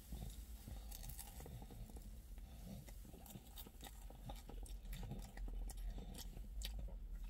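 A man biting into a thick-crusted slice of pizza and chewing it, with irregular small clicks and crunches of the crust. Underneath is a steady low rumble, heard inside a car cabin.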